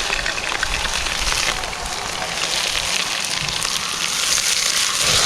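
Hot oil sizzling and spattering in a pan over a campfire, a dense steady crackle that starts just before and holds throughout.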